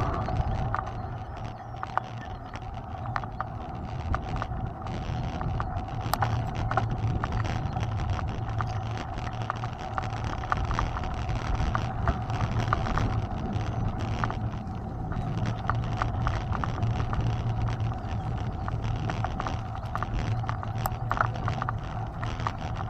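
Mountain bike in motion: a steady hum with many small clicks and rattles from the bike and the trail surface.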